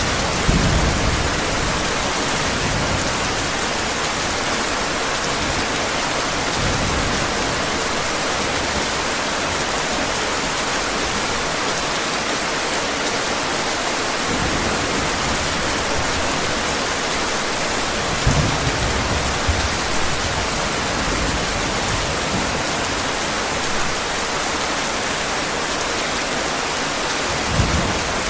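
Steady heavy rain, with a few short low rumbles of thunder: one just after the start, others near the middle and one near the end.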